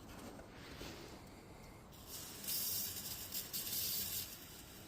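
Aerosol can of ether starting fluid hissing in short sprays from about two seconds in, priming the cold engine for starting.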